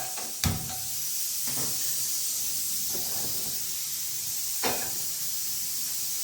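Steady hiss at the gas stove as cooking oil heats in the pan for the tempering, with a sharp knock of a kitchen utensil about half a second in and a lighter one about two-thirds of the way through.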